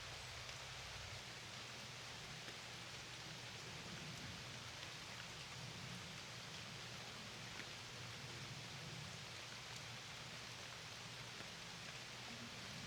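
Steady rain falling: an even, faint hiss with scattered tiny drop ticks and a low rumble underneath.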